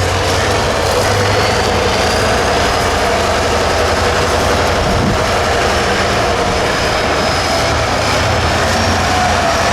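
Engine of a 6x6 trial truck running loud and steady, with a faint high whine above it that rises slightly in pitch.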